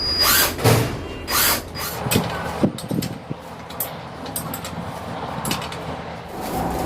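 Metal engine parts and hand tools being handled during engine assembly: irregular clanks, taps and short scrapes. There are a few louder noisy bursts in the first second and a half, then scattered sharper clicks.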